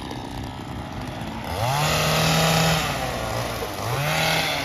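Small handheld gas trimmer engine running low, then revving up about a second and a half in, holding high for about a second and dropping back, then revving up again near the end.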